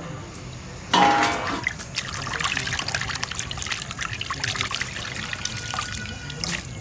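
Water trickling and pouring, a dense run of small splashes, with a brief loud sound about a second in.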